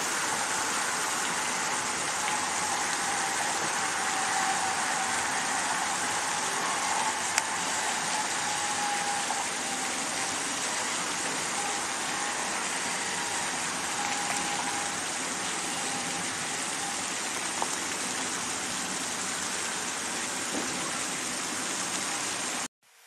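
Amtrak passenger train rolling away: a steady rushing noise with a faint whine that slowly falls in pitch. It cuts off suddenly near the end.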